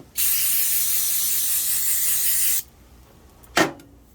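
Aerosol can of 3M brake cleaner spraying in one steady hiss of about two and a half seconds. About a second after the spray stops there is a single short, sharp noise, louder than the spray.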